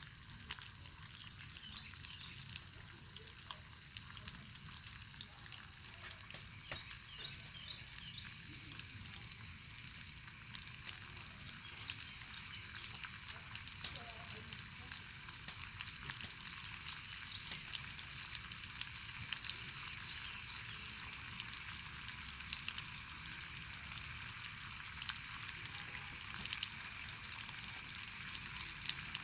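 Bacon frying over a fire: a steady sizzling hiss with many small pops and crackles, growing a little louder after about seventeen seconds.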